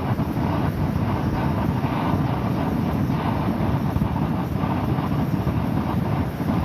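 Steady rain falling on a tarp, with a heavy low rumble of wind on the microphone.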